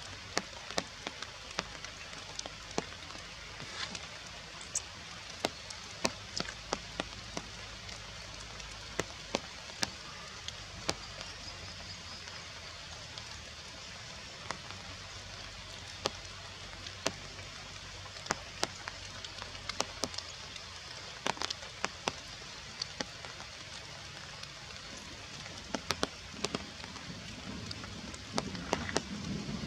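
Rain falling in forest: a steady hiss with scattered sharp drops tapping irregularly. A low rumble builds near the end.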